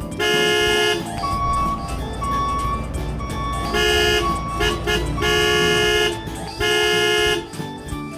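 Cheerful background music with an electronic horn-like beep sounding four times, each held for under a second.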